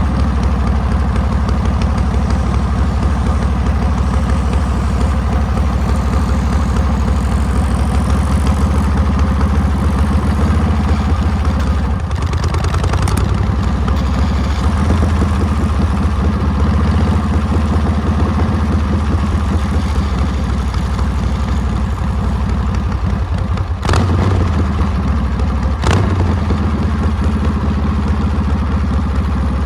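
Harley-Davidson Panhead V-twin engine running loudly and steadily as the motorcycle is ridden. Its note changes briefly about twelve seconds in, and two short sharp sounds come near the end.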